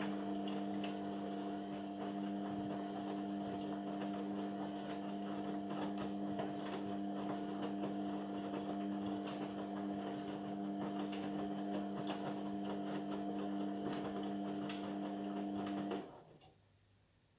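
Indesit washing machine running mid-cycle: a steady motor hum with light clicking and rattling over it. The hum cuts off suddenly near the end.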